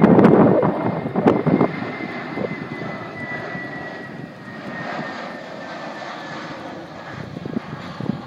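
Jet airliner coming in to land as it passes, its engine roar fading, with a high whine that falls slightly in pitch. Wind buffets the microphone in the first second or so.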